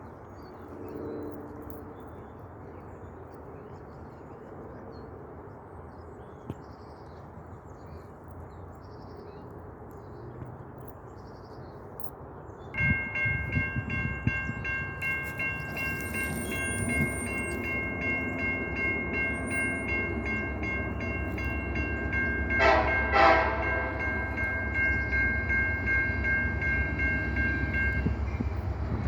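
Freight train approaching: after a stretch of low background rumble, the locomotive's air horn comes in suddenly about halfway through and sounds a long chord of three tones. The low rumble of the diesel engine grows louder beneath it.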